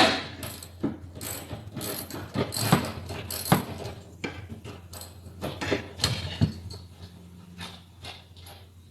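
Irregular metallic clicks and knocks from hand tools working on the fastenings of a car's passenger seat as it is being unbolted, with a sharp knock at the start.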